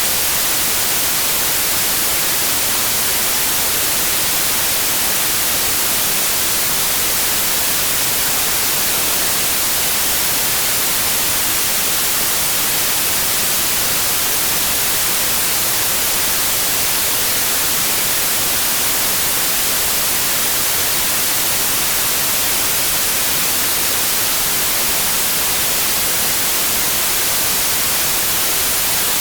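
Steady white noise: an even, unchanging hiss with no tones or breaks, strongest in the high frequencies.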